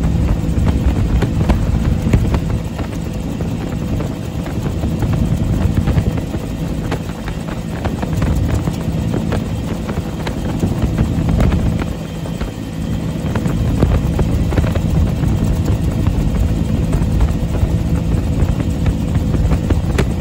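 Bell UH-1 Huey helicopter in flight, its turboshaft engine and rotor running steadily with a constant hum of several low tones.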